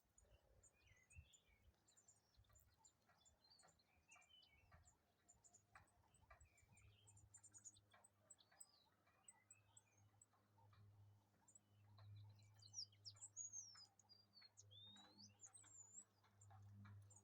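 Faint birdsong: many short chirps and whistles from small birds, with a few louder sweeping whistles from about twelve to sixteen seconds in, over a low steady hum.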